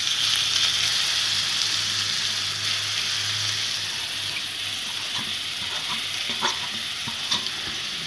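Hot oil in a steel kadai sizzling as grated beetroot is tipped in; the sizzle starts suddenly and slowly dies down, with a few light clicks in the second half.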